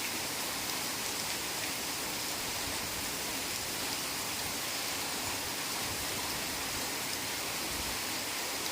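Heavy rain falling steadily, a dense, even hiss with no breaks or distinct drops standing out.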